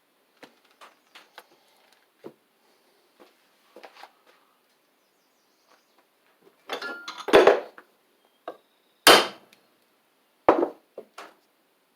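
Light clinking of tools and parts, then three sharp hammer blows about a second and a half apart, the middle one the loudest: a bolt is being driven as a punch against the camshaft pin of a Briggs & Stratton WMB small engine, and the pin is tight.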